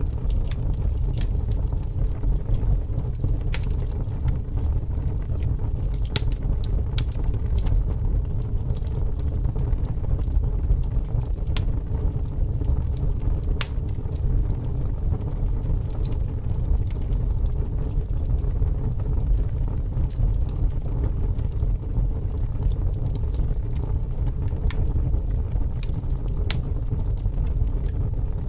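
Fire burning: a steady low rumble with many sharp crackles and pops.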